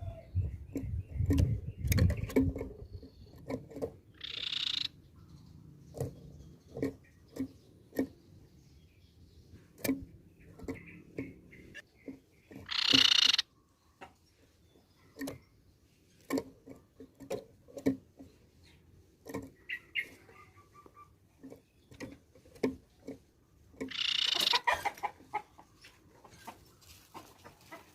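Tepus pipi perak (crescent-chested babbler) calling: three short high, ringing call phrases, about 4 s in, near the middle (the loudest), and near the end. A scatter of short sharp ticks runs between them.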